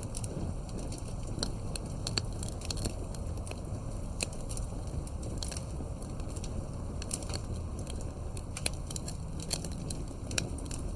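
Wood campfire crackling: irregular sharp pops and snaps, a few louder than the rest near the end, over a steady low rushing background.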